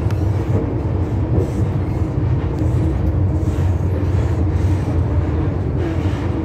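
Inside the car of an MTR M-Train electric multiple unit, the train running on the track: a steady, loud, low rumble of wheels and running gear.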